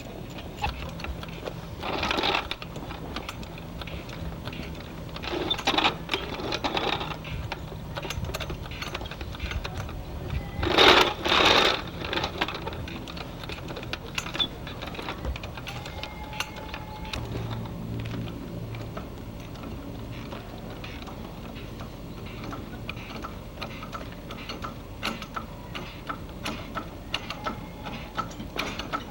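A ratchet wrench clicking in quick runs, with metal clinks of hand tools, as bolts are undone during removal of a car engine. The loudest runs of clicking come about 2 seconds in, around 6 seconds and around 11 seconds.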